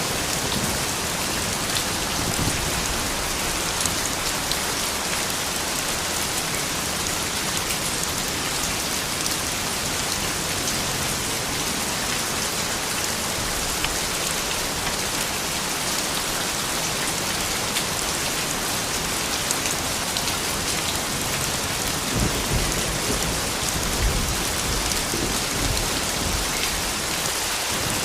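Steady rain falling on a surface, an even hiss of drops without a break. A brief low rumble rises under it about three quarters of the way through.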